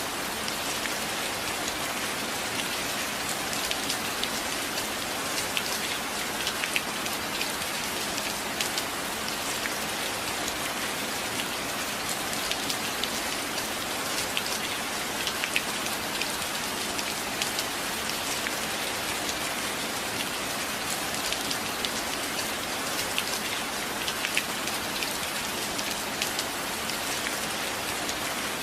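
Steady rain falling on a roof, an even hiss with many sharp drop ticks scattered throughout.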